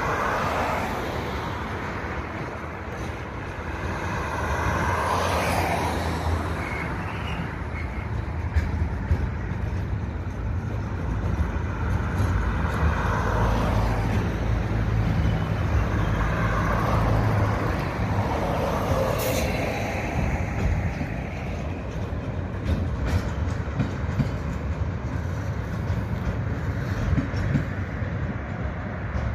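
Long freight train of timber wagons rolling past: a steady rumble of wheels on the rails, rising and falling, with scattered clicks and knocks from the wagons.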